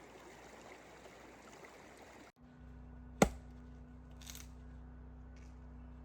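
Faint steady rushing of a mountain river, cut off abruptly about two seconds in; then a low steady hum with a single sharp click about three seconds in and a brief soft hiss a second later.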